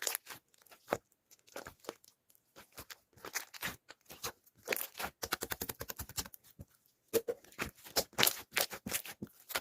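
Irregular close-up crunching and crinkling noises, a quick run of short crackles with brief pauses between them.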